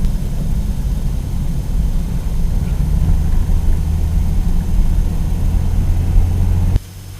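Road and engine noise inside a moving car: a steady low rumble with a low hum, which drops off abruptly near the end.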